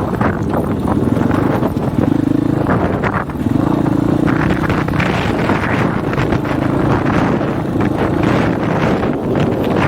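Husqvarna 501 dirt bike's single-cylinder four-stroke engine running under changing throttle, its pitch rising and falling with a dip about three seconds in, under heavy wind buffeting on an unshielded microphone.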